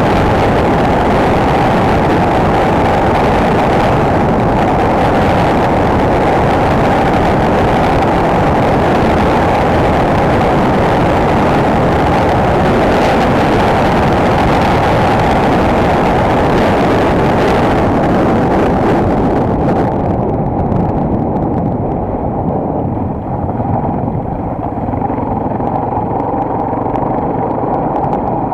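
Enduro motorcycle riding, with its single-cylinder engine running under a dense rush of wind noise, recorded by an action camera on the moving bike or rider. About 20 seconds in, the hiss in the upper range drops away and it gets slightly quieter.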